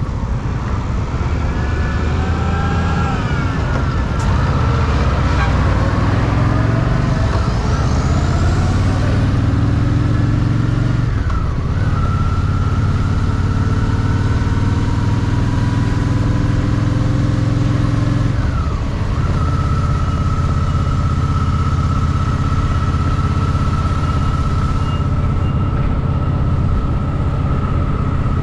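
Honda Shadow VT750's V-twin engine running under way. Its pitch dips briefly twice, about a third and two thirds of the way through, as if on shifts or throttle changes, then holds steady.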